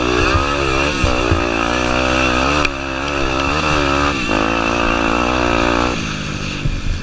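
Honda Tornado 250 enduro motorcycle's single-cylinder four-stroke engine pulling under load, its revs rising and falling over and over as the rider works the throttle. The engine drops back to a lower, steadier note about six seconds in.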